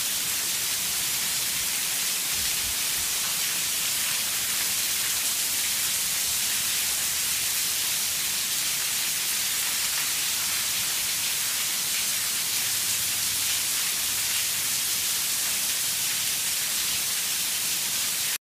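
Heavy rain pouring steadily onto a paved courtyard, an even, unbroken hiss.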